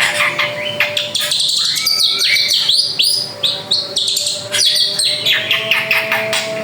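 Drongo singing a fast, varied song of whistles, chirps and sliding notes.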